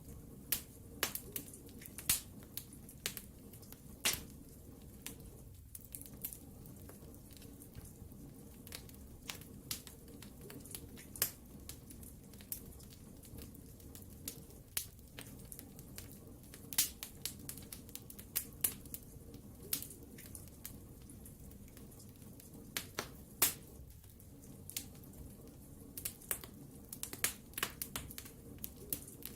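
Wood fire crackling in a fireplace: irregular sharp pops and snaps over a low, steady rush of flame.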